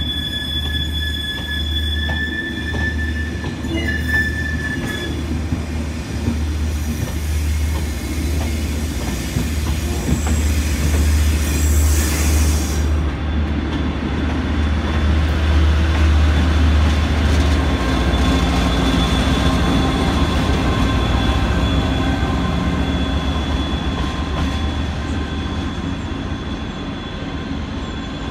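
Enterprise diesel-hauled passenger train rolling slowly past: a steady low diesel engine hum under the running of the coaches, with high-pitched wheel squeal in the first few seconds. A hiss rises about seven seconds in and cuts off suddenly near the middle.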